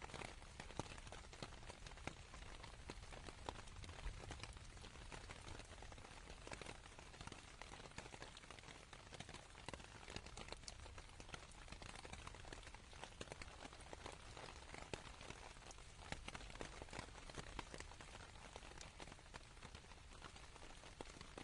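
Rain falling on tent canvas, heard as a faint even hiss full of small drop ticks, over a steady low rumble.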